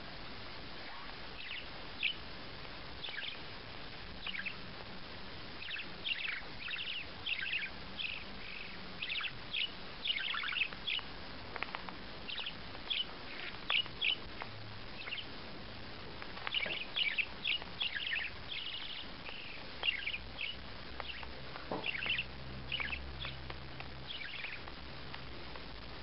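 A bird chirping over and over in short, sharp, falling calls, sparse at first and coming thick and fast through the middle, over a steady background hiss.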